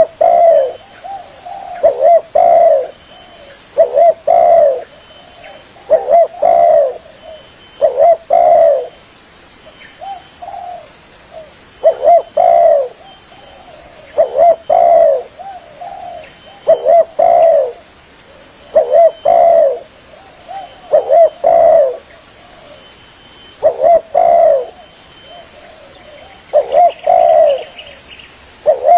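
Spotted dove (tekukur) cooing: short phrases of a few coos, repeated about every two seconds.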